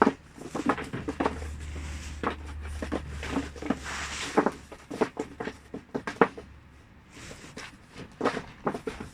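Irregular rustling with scattered clicks and knocks, and a short stretch of hiss about four seconds in.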